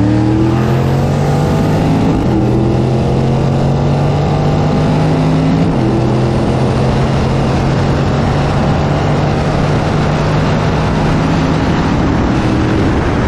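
V8 cars running flat out in a drag race, with heavy wind and road rush. The engine notes hold steady and shift in pitch in a few distinct steps.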